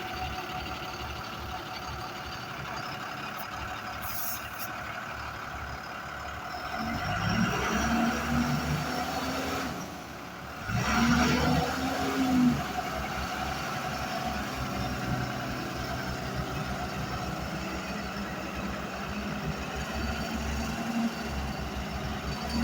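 Yard truck engine running, rising in pitch and loudness twice near the middle as it is revved or pulls under load, then settling back to a steady run.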